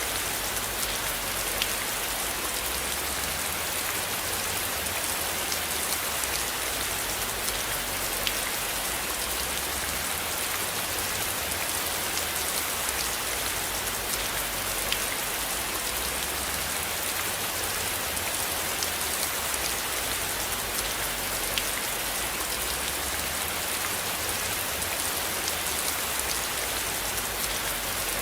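Steady rain falling, with scattered sharp drop ticks, over a low rumble that slowly swells and fades.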